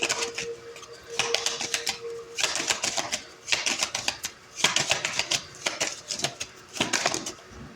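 A deck of Lenormand oracle cards being shuffled by hand: about seven quick bursts of rapid flicking and riffling, each lasting under a second.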